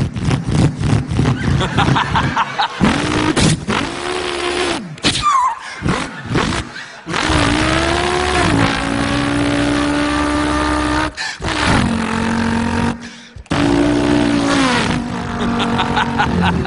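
A man imitating a racing car engine with his voice: revving and shifting up through the gears in several runs, with brief breaks between them.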